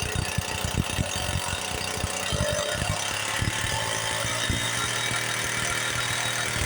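Small two-stroke engine of the weed-whacker or chainsaw kind running with ragged, uneven firing, settling into a steadier run about three seconds in.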